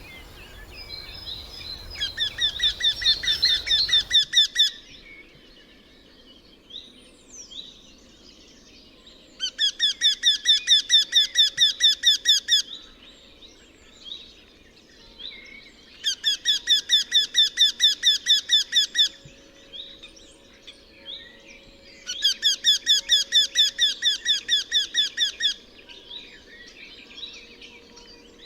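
Eurasian wryneck calling: four bouts of evenly repeated squeaking notes, about four or five a second, each bout lasting three to four seconds with pauses of a few seconds between.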